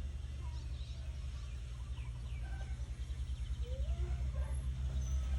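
Chickens calling faintly in short scattered notes at varying pitches, over a steady low rumble.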